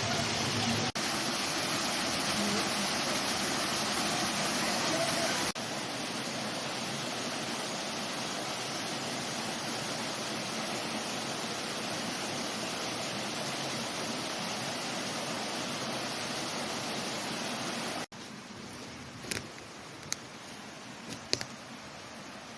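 Valley stream water running, a steady rush. It cuts abruptly to a quieter stretch about five seconds in, then to a much quieter one late on, where a few sharp ticks stand out.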